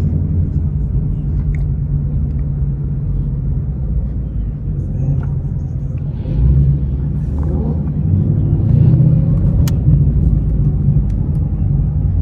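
Ford Mustang GT's 5.0 V8 engine running at low speed while the car creeps along, swelling briefly about halfway through and again a couple of seconds later.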